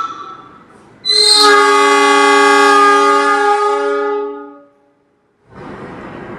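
Train horn sounding one long blast of several tones together, lasting about three and a half seconds before fading off. About a second later, a steady rushing noise begins.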